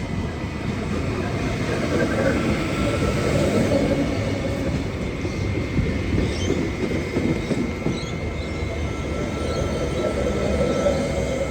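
Old V-set double-deck electric train rolling into the platform, a steady rumble of wheels on the rails that swells a couple of seconds in, with a few faint high squeals in the middle and a steady high tone underneath.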